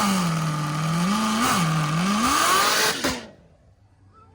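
A car's V8 engine revving loudly, its pitch dropping and climbing again several times. The sound cuts off suddenly about three seconds in.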